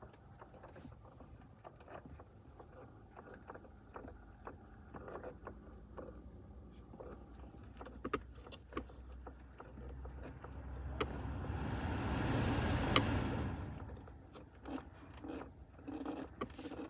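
Irregular clicking and knocking from behind a Toyota Avensis T25's dashboard, the sign of a faulty heater flap motor. A low steady hum runs underneath. A rushing noise swells and fades about two-thirds of the way through.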